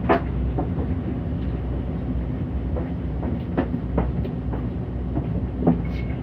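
City bus driving, heard from inside: steady engine and road rumble, with a few sharp rattles or knocks from the body.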